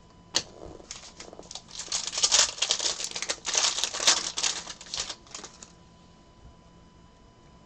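Trading cards being handled: a sharp click, then a few seconds of rapid clicking and rustling as cards are flipped through and sorted, dying away after about five and a half seconds.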